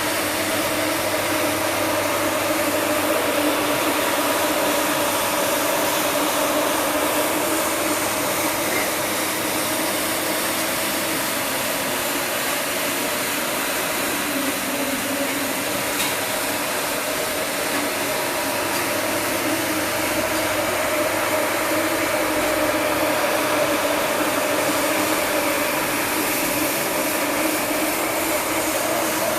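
Electric floor polisher running steadily while scrubbing a carpet: an even motor whir with a low hum that holds the same level throughout.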